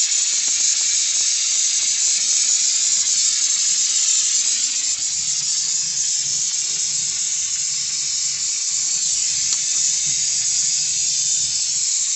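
Oxygen and MAP gas torch flame hissing steadily, heating a refrigeration tube joint to unsweat it.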